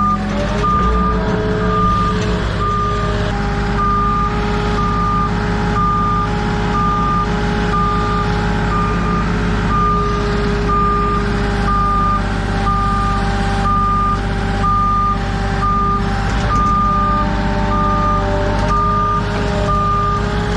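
Forklift's reversing alarm beeping steadily about once a second over its running engine.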